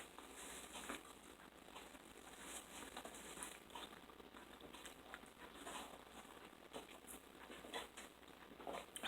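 Faint chewing of crispy homemade french fries: small, irregular crunches and mouth sounds.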